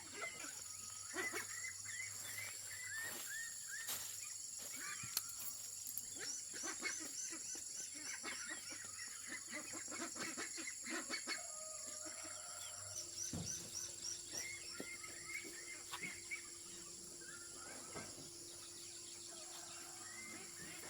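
Chickens clucking and calling in many short repeated calls, over a steady high-pitched drone.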